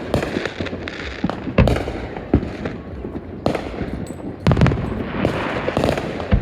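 Fireworks going off: a string of sharp bangs at uneven gaps, the loudest about a second and a half in and again past the middle. A stretch of dense crackling follows near the end.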